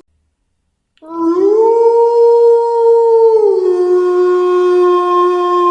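A wolf howling: after about a second of silence, one long howl starts, rises in pitch and holds, then drops a little just past the middle and carries on at a steady pitch.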